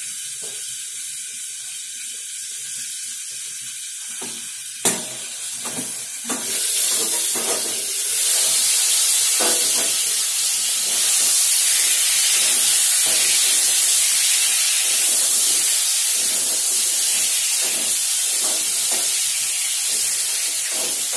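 Eggplant slices frying in oil in a steel kadai, sizzling. A sharp metal clank comes about five seconds in, and after it the sizzle grows much louder and stays loud as the pan is uncovered and steam escapes, with short knocks of stirring.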